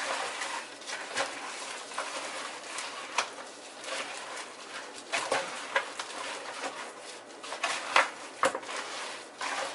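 Raw seasoned chicken pieces being mixed in oil, giving irregular wet squishing and smacking sounds, with sharper smacks now and then.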